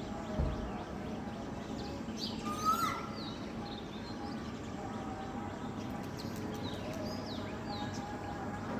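Several birds chirping and calling over a steady background hiss, with short quick chirps throughout and one louder call, falling then rising, about two and a half seconds in. A brief low thump sounds near the start.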